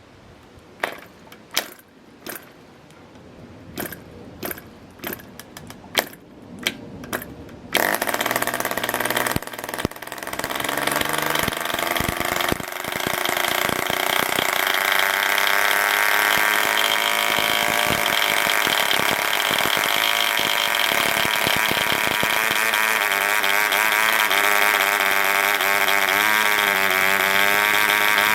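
1950 German RGU 2.5 cc model diesel engine being hand-started: about a dozen separate sharp pops as it is flicked and fires singly, then about eight seconds in it catches and runs, speeding up over several seconds to a steady high-pitched buzz.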